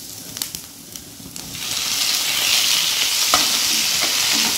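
Chopped onions and cashews frying in oil in a non-stick pan, stirred with a wooden spatula that clicks against the pan. About a second and a half in, chopped tomatoes go into the hot oil and the sizzling turns much louder and stays steady.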